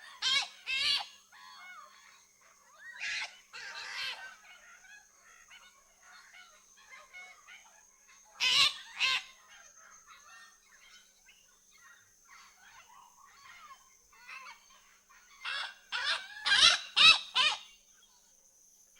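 Macaw squawking: loud harsh calls, mostly in pairs a few seconds apart, then a quick run of five or six calls near the end. Fainter bird chatter and a steady high-pitched whine run underneath.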